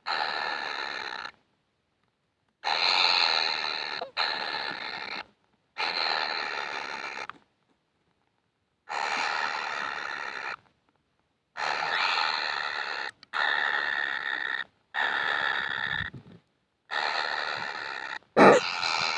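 Kingfisher chick giving harsh, raspy begging calls, about ten calls of a second or so each, with sudden silent gaps between them. A sharp louder crack comes near the end.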